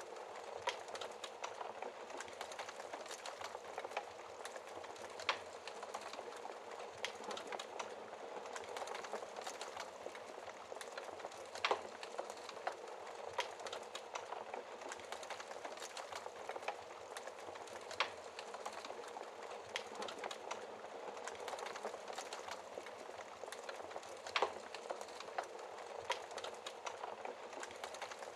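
Wood fire burning in a fireplace: a steady hiss of flames with irregular sharp crackles and pops, a few louder pops standing out about a third, two thirds and seven eighths of the way through.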